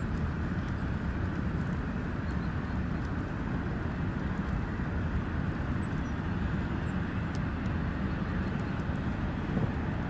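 Airplane engine noise: a steady, even rumble with no rise or fall.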